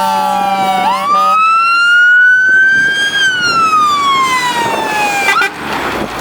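Fire engine wail siren: it sweeps up in pitch over about two seconds, then slowly falls and cuts off near the end. A steady horn note sounds with it at the start and stops about a second in.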